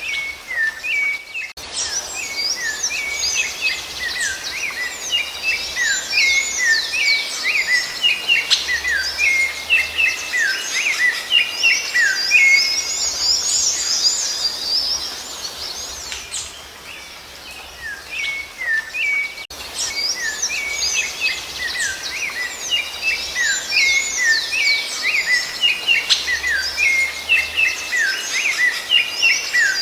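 Songbird singing a fast, continuous twittering song of short sweeping notes, with a lull of a few seconds in the middle.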